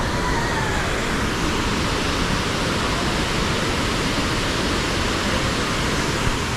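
Steady rushing noise of the Hogenakkal waterfall and fast river water.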